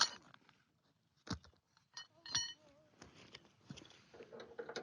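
A few sharp metallic clinks and knocks, one with a short ring, as metal tie-down anchor hardware and tools are handled, with faint scattered ticks between them.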